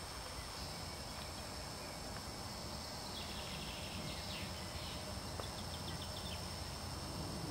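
Small birds singing faintly: a short trill about three seconds in and a quick run of high chirps about a second later, over a steady low background rumble.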